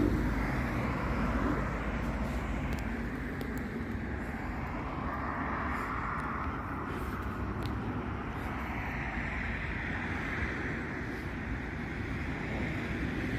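Road traffic: a vehicle's engine fading away at the start, then a steady rush of passing cars' tyres and engines with slow swells.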